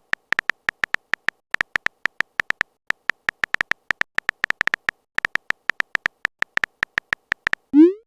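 Phone-keyboard typing sound effect: rapid, irregular short high ticks, several a second. Near the end a short rising swoop, the loudest sound, marks a chat message being sent.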